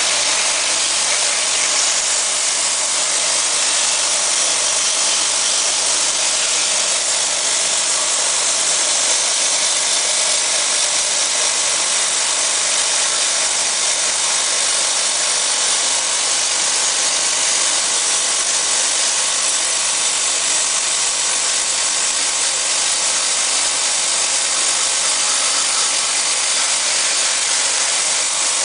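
Steady hiss of a cleaning spray of water being jetted into a wall-mounted air conditioner's fins, washing mould and dust out of the unit, with the sprayer's motor running under it. The spray runs unbroken.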